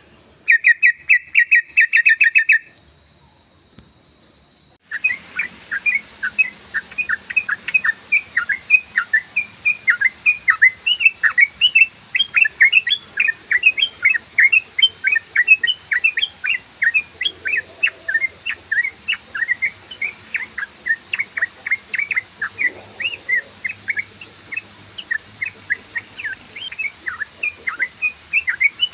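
Yellow-vented bulbul calling in a rapid, continuous run of short chirps, several a second, from about five seconds in. Before that comes a fast, even trill of about two seconds, then a steady high tone for about two seconds.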